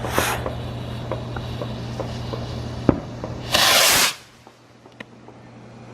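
Submarine rocket firework launching: a sharp pop about three seconds in, then a loud hiss lasting about half a second as it takes off.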